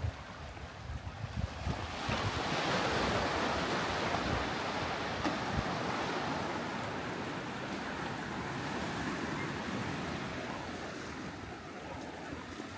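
Surf on a sandy beach: a wave breaks about two seconds in and its wash hisses up the shore, slowly fading. Wind buffets the microphone throughout.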